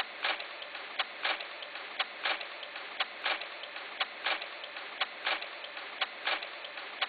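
Steady mechanical ticking: a sharp tick about once a second, each followed by a softer second click, over a faint steady hiss.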